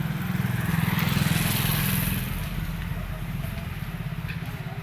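Hero CBZ Xtreme's 150 cc single-cylinder four-stroke engine running after a top-end ('half engine') rebuild. It is blipped up briefly about a second in, then settles back to a steady, fast-pulsing idle.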